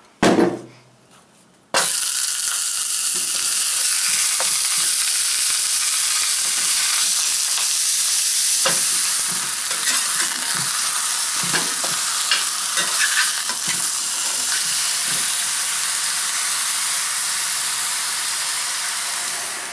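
Pre-made beef patties frying in hot oil in a cast-iron skillet, a loud steady sizzle that begins suddenly about two seconds in. Occasional taps and scrapes of a metal spatula against the pan.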